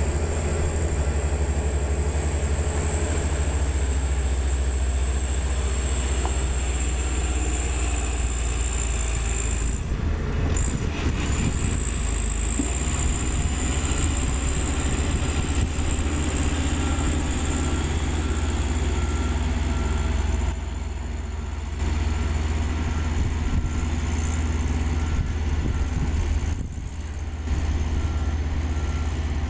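Komatsu GD555 motor grader's diesel engine running steadily with a high whine over its deep hum, with faint evenly spaced beeping at times.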